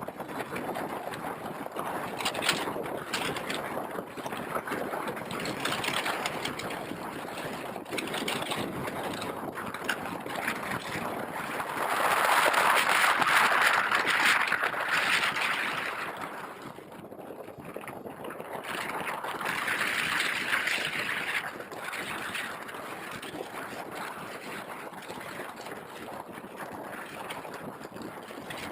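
Wind and airflow rushing over the onboard camera microphone of a HobbyKing Breeze RC plane in flight, a rough noise with no clear motor tone. It swells loudly about twelve seconds in for a few seconds, and again more briefly around twenty seconds.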